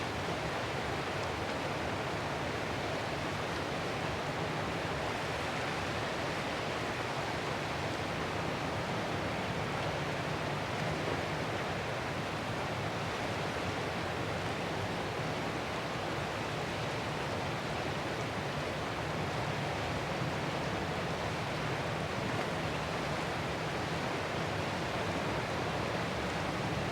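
Ocean surf as a steady, even wash of noise with no separate wave crashes standing out.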